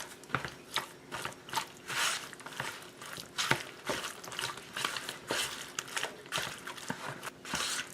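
Boneless chicken thighs being mixed by hand into a thick yogurt-and-spice marinade in a bowl, a run of irregular short wet sounds.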